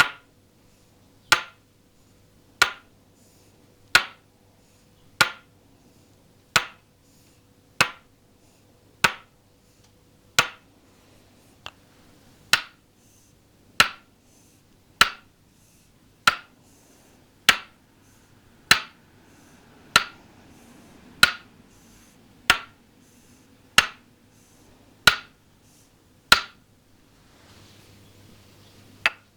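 Toksen massage: a wooden mallet tapping a wooden peg held against the body, single clear wooden knocks at a slow even pace of about one every 1.3 seconds. After a short pause near the end, a quick run of taps begins.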